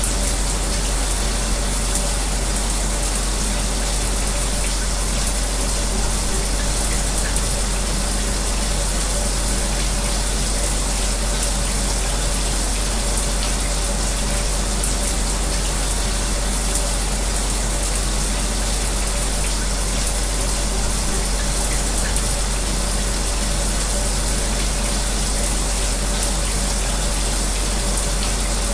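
Shower running in a steady, even spray, with a fan's constant hum underneath.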